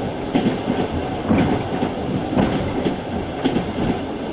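Passenger train running along, its carriage rumbling steadily with wheels clacking over rail joints about once a second.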